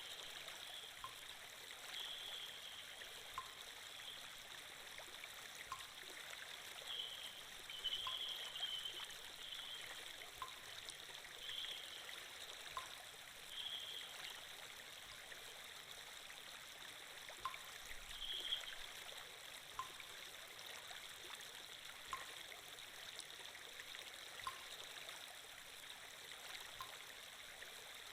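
Recorded sound of a flowing stream: a steady trickling rush of water with small splashes now and then. A faint tick recurs about every two seconds.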